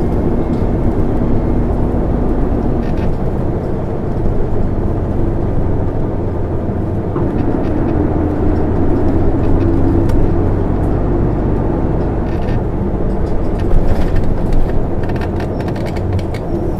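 Isuzu Erga city bus (PKG-LV234N2) under way, heard from inside the cabin: a steady diesel engine hum with road noise, swelling in the middle, and a few short rattles and knocks near the end.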